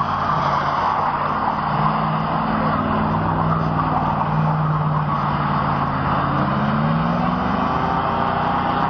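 Muscle car engine held at high revs as the car spins donuts with its rear wheels spinning on loose dirt; the engine note sags briefly about a second in, holds steady, then climbs again near the end.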